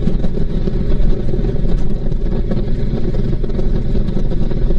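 Honda VTX1800C's big V-twin engine running steadily while the motorcycle cruises at road speed, with rushing wind noise over it.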